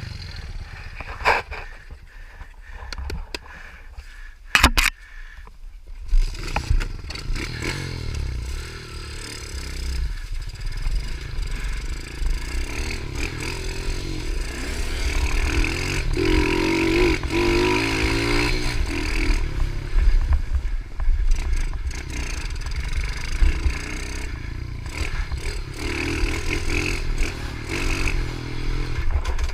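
A pitbike's small engine running with clattering and scraping, over a low wind rumble. A few sharp knocks come in the first five seconds, and the engine sound grows louder from about eight seconds in.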